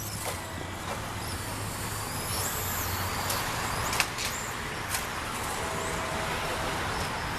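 Electric 2wd stock-class RC stadium trucks racing on a dirt track: high motor whines rise and fall over a steady hiss, with a sharp knock about four seconds in.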